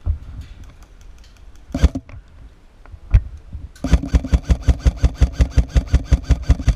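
Airsoft electric rifle firing: a few single shots, then, near the middle, a sustained string of rapid shots at roughly nine a second, with the gearbox motor whirring steadily underneath.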